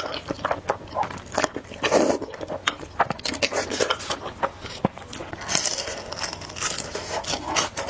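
Close-miked eating of spicy noodles: wet chewing with many quick mouth clicks and smacks, and a few longer, breathier passages.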